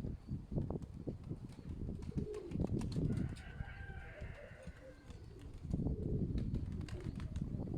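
Sickle-winged domestic pigeons cooing in low, rounded phrases, with scattered light clicks and taps.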